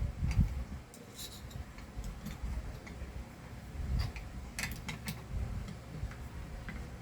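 Hand tools and small metal motor parts clicking and tapping lightly as a wrench is picked up and set to a vacuum-cleaner motor bearing, a few sharp clicks at irregular intervals.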